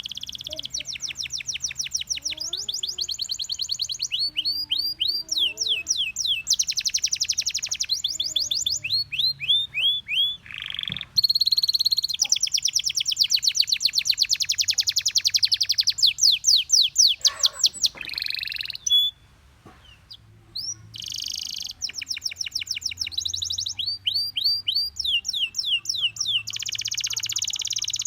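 Gloster canary singing: fast trills and rolls of rapidly repeated high notes in phrases a few seconds long. The song breaks off for about two seconds a little past the middle, then resumes.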